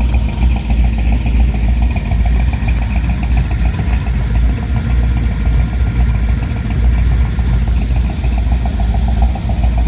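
Classic car engine idling steadily with a rapid, even pulse; a moment later it is said to be running like it's cold.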